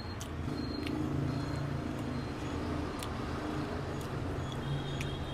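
A motor vehicle's engine running, a steady low hum that swells about a second in, with a few faint clicks.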